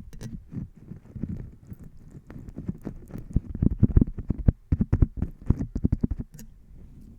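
Close-miked ASMR trigger sounds: a rapid, irregular run of soft, low pops and taps, densest through the middle and thinning out near the end.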